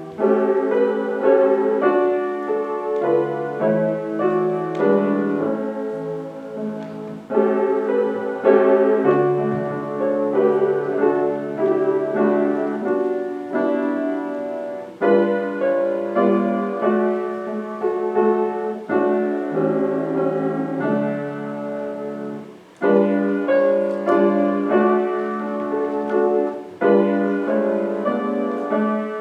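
Piano playing slow music in sustained chords, phrase by phrase, with brief pauses between phrases about every eight seconds.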